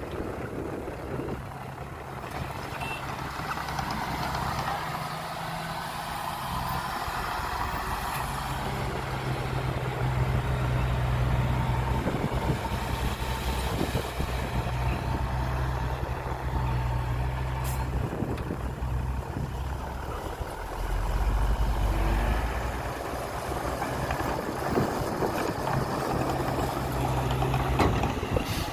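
Heavy diesel engines of a dump truck and bulldozer running steadily at work, growing louder after a few seconds, with a deeper surge of power about two-thirds through.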